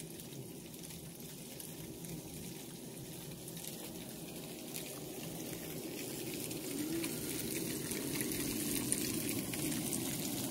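Tofu slices frying in oil in a skillet: a steady sizzle that grows slowly louder toward the end.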